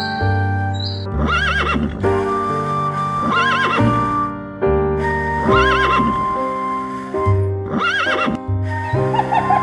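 An animal call with a wavering pitch, heard four times about two seconds apart, over background music.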